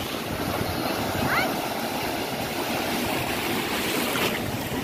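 Ocean surf breaking and washing up the beach: a steady rush of water noise.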